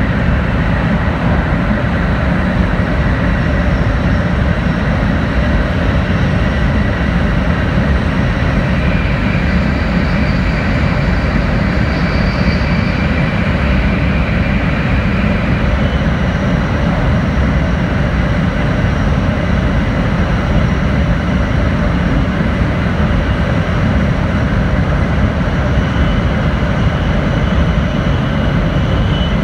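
Steady running noise inside an N700-series Shinkansen car at speed: a constant low rumble and rush of wheels and air, with faint thin high whines above it.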